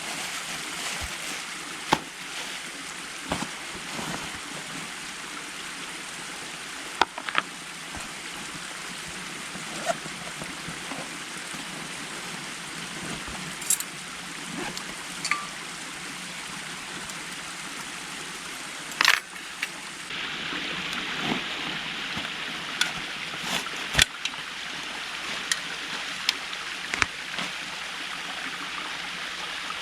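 Creek water running steadily, with scattered sharp clicks and knocks over it. The water sound turns brighter about two-thirds of the way through.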